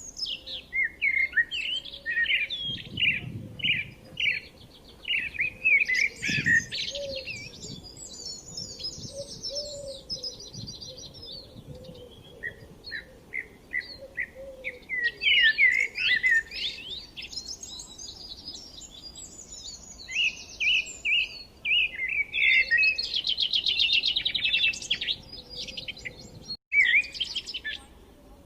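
Small birds singing and chirping: quick repeated chirps and fast trills in phrases, with short lulls between them.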